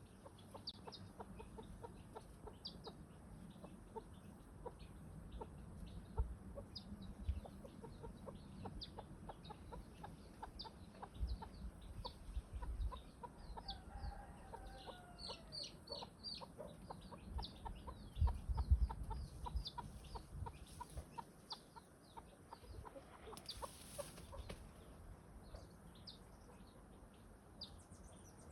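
Chickens clucking, with many short high chirps and ticks throughout and a brief wavering call about halfway. Low thumps come and go, loudest a little after the middle.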